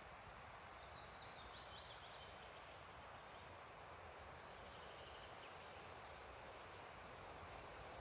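Faint woodland ambience: a steady hiss of wind in the trees, with a few faint, short, high bird chirps in the middle.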